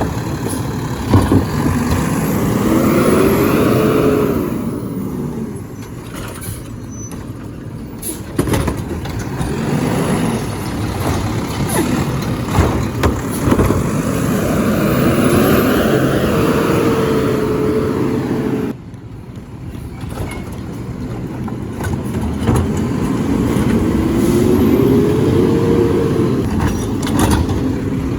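Garbage truck engine and hydraulics working in three rising-and-falling cycles a few seconds each, with knocks and clanks in between; the second cycle cuts off suddenly about two-thirds of the way in.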